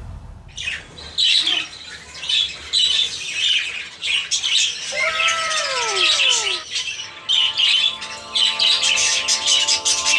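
Budgerigars chirping and squawking in quick, busy bursts. Steady music tones come in underneath about seven seconds in.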